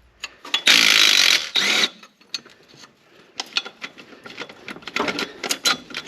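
Ratchet wrench clicking as the turbo's mounting bolts are backed out: a loud run of rapid ratcheting about a second in, then scattered clicks and metal taps.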